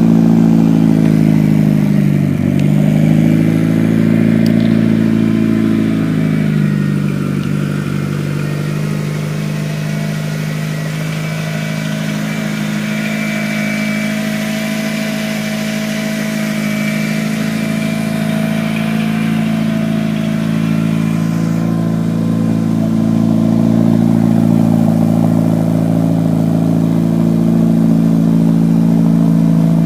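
Mitsubishi Lancer Evolution IX's turbocharged 2.0-litre 4G63 inline-four idling after a cold start, heard at the exhaust tip. The idle dips briefly twice in the first several seconds, then holds steady. The engine has set misfire codes P0300 and P0302 (random and cylinder 2 misfire) with the check-engine light on when cold.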